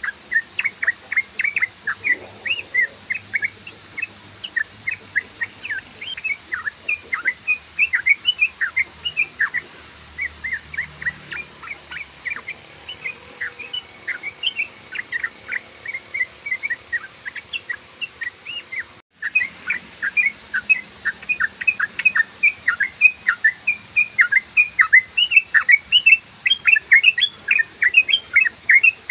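Yellow-vented bulbul (trucukan) singing a rapid, unbroken run of short chirpy notes, several a second. The song cuts out for an instant about two-thirds of the way through.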